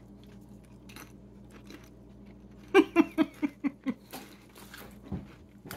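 Someone chewing potato crisps with mouth closed, with faint crunches. About halfway through comes a quick string of about seven short closed-mouth hums of enjoyment ('mm-mm-mm'), then a few more crunches.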